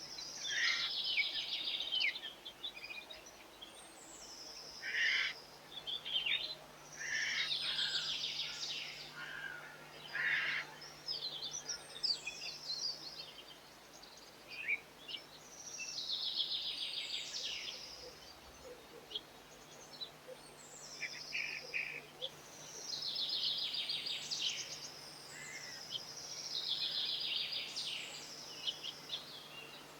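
A small songbird singing the same short phrase over and over, a few seconds apart: a high note sliding downward, then a fast buzzy trill.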